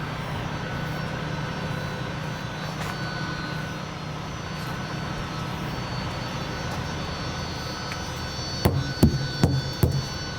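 Semi truck's diesel engine idling steadily, with a few sharp metallic knocks in quick succession near the end.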